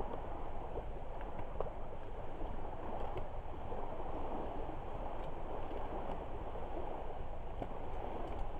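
Driftwood campfire burning, with scattered sharp crackles and pops over a steady low rush.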